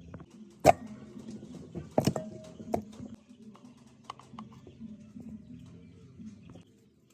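A few sharp knocks, the loudest about half a second in and a pair about two seconds in, then lighter scattered clicks and taps over a faint low hum.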